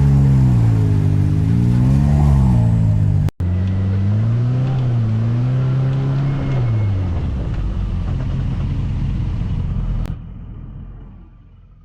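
Side-by-side UTV engine running under changing throttle, its pitch rising and falling, with a brief drop-out about three seconds in. The engine note fades about two-thirds of the way through, and near the end it drops to a quieter low rumble.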